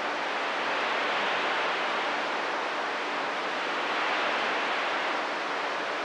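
CB radio receiver hiss: steady static on an open channel between transmissions, with a faint steady hum underneath.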